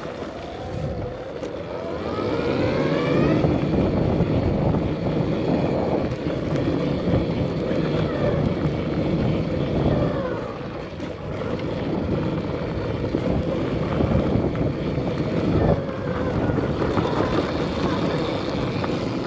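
Arctic Leopard XE Pro electric dirt bike riding on a trail. The motor gives a faint whine that rises in pitch under throttle a few times, about two seconds in, around eight to ten seconds and near the end, over a steady rumble of riding noise.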